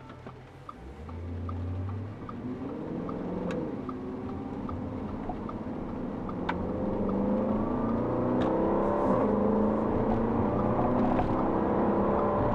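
2013 Audi RS5's 4.2-litre V8 through a Capristo exhaust, pulling away and accelerating, its pitch climbing steadily as it grows louder. A regular light ticking is heard over it during the first few seconds.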